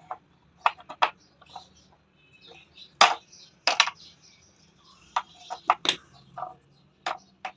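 A string of short, sharp knocks and clicks at irregular intervals, like hard objects being tapped or set down, loudest about three seconds in.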